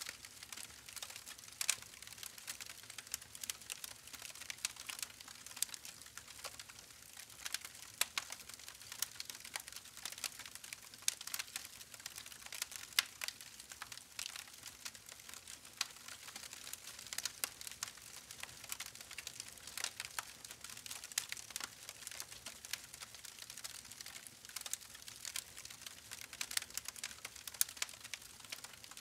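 Campfire burning with a steady hiss and dense, irregular crackles and pops of burning wood.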